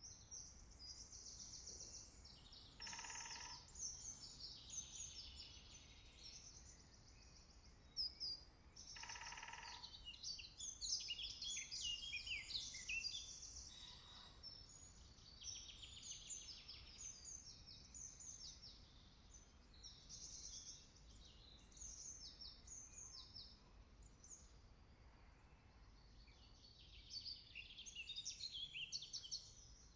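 Several songbirds singing together in woodland, with quick, high chirping and warbling phrases overlapping throughout. Two lower, buzzy calls sound about 3 and 9 seconds in.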